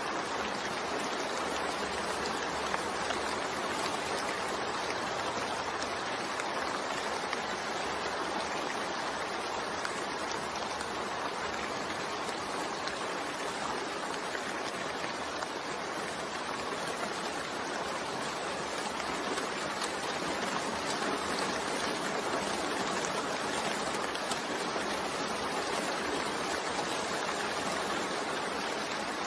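Steady rain falling: an even, unbroken hiss of water with no thunder or single drops standing out.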